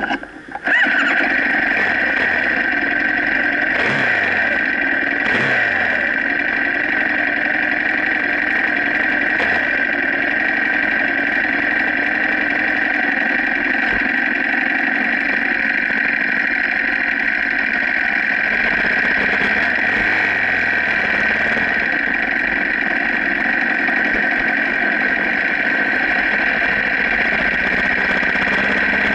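Racing motorcycle engine idling steadily, heard close up through the bike-mounted camera. The sound drops away briefly right at the start, then cuts back in sharply under a second in and holds at an even pitch.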